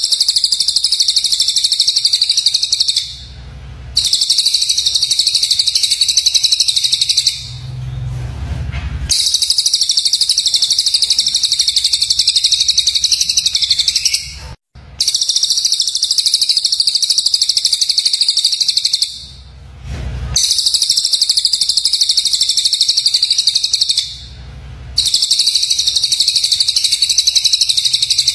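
A songbird's rapid, harsh, high-pitched chattering trill, as used in bird-song training recordings for songbirds. It comes in about six long bursts of three to five seconds each, with short pauses between them.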